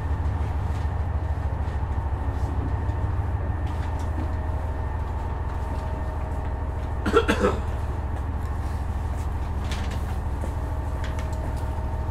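Steady low drone of a KiHa 126 diesel railcar heard from inside the passenger car. About seven seconds in there is a short cough.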